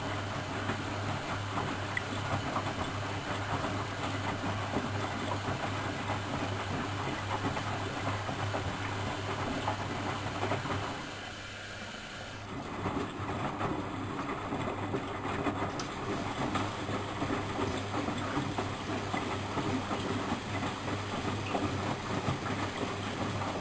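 Miele Professional WS 5105-C washing machine running, a steady hum with clattering from the turning drum. The sound drops out briefly about eleven seconds in, then carries on.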